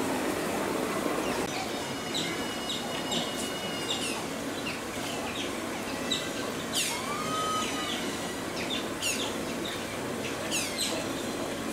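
Birds calling over a steady background hiss: sharp, very high calls that sweep quickly down in pitch, repeated every second or two, with thin held high notes in between.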